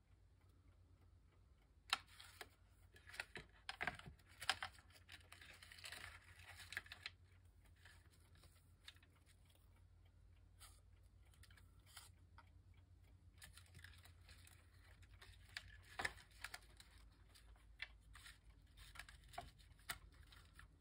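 Faint paper rustling and small light taps and clicks as cut paper pieces are handled and placed on a work surface, over a faint steady low hum.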